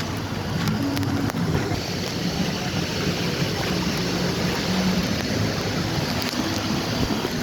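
Steady rush of flowing and splashing water, with faint distant voices underneath.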